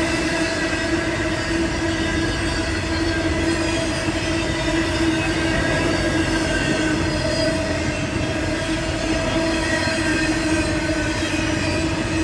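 Norfolk Southern freight train rolling past, a continuous rumble of the cars with a steady squeal from the steel wheels on the rails.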